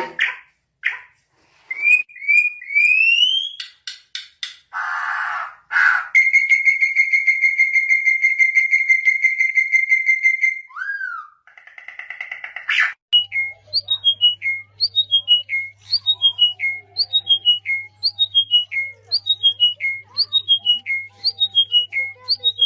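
Birds whistling and calling: a few rising whistles, a long steady whistle lasting about four seconds, then a short falling whistle phrase repeated about once a second over a low steady hum.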